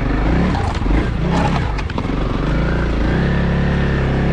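Honda CRF300L's single-cylinder four-stroke engine pulling under throttle on a hill climb, its pitch uneven for the first couple of seconds, then held at a steady note from about three seconds in.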